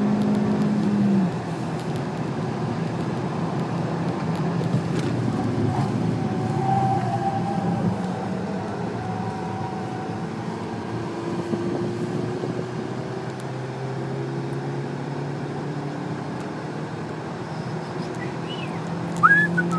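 Seat Leon 1.4 TSI turbo four-cylinder petrol engine heard from inside the cabin on track: running at high revs, then dropping off about a second in, then pulling again with its pitch slowly rising, over steady road and tyre noise. A short, loud squeak comes near the end.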